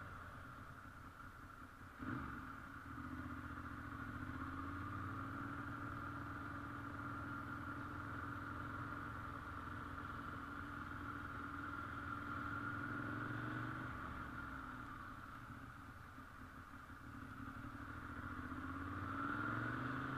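Ducati motorcycle engine running: a sudden loud burst about two seconds in, then a steady, slightly wavering engine note that fades a little and rises again with climbing revs near the end.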